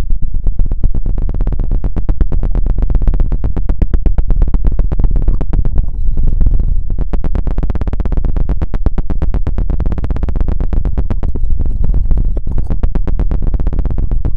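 Very fast, continuous scratching and knocking of an ASMR tool right on the microphone: a dense stream of rapid, close, bass-heavy taps.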